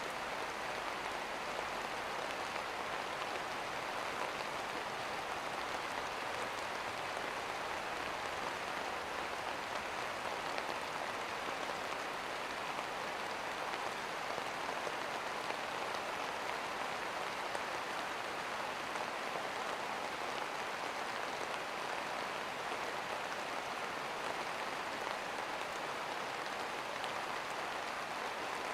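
Steady rain, an even hiss of many drops falling without a break.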